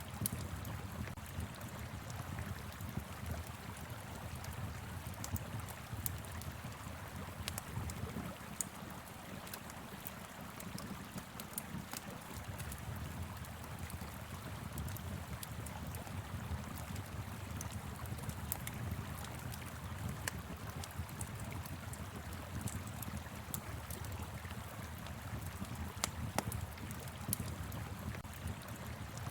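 Wood fire crackling with frequent sharp pops over the steady rush of a flowing river, with a low wind rumble underneath.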